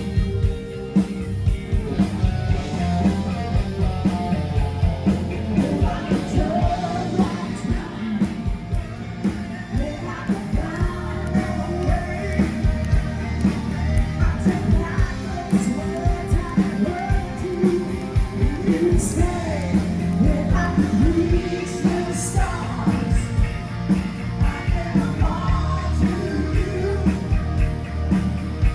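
Rock band playing live: a male voice singing over a steady drum beat and electric guitar.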